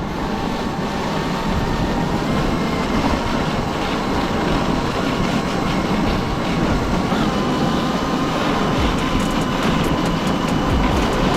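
Traxxas XRT RC truck towing a sled over a snow-covered street: a steady rumbling rush of tyres and sled runners on snow, with a faint thin whine above it.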